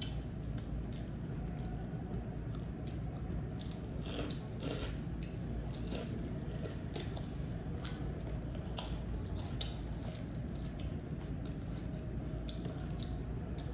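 Crisp crunching and chewing of unripe green mango slices and chicharon (pork rinds): a string of short, sharp bites and crackles over a steady low hum.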